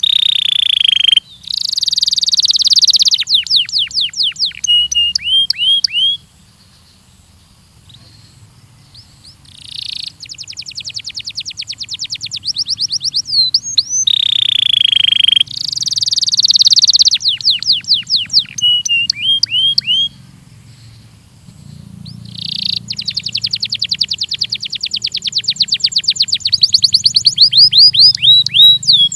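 Domestic canary of the Belgian breed singing: loud phrases of fast trills of repeated notes and sliding whistled notes, with two brief lulls, about six seconds in and about twenty seconds in.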